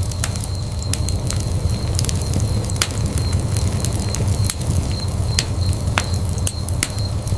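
Wood fire burning in a fireplace: a steady low rumble of the flames with irregular sharp crackles and pops of the burning wood, several a second.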